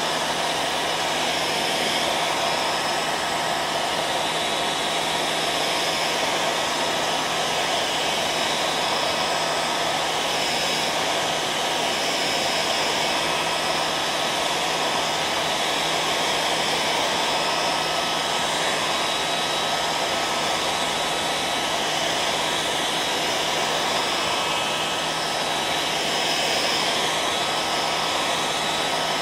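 Hair dryer running steadily: a continuous rush of blown air with a constant motor hum under it.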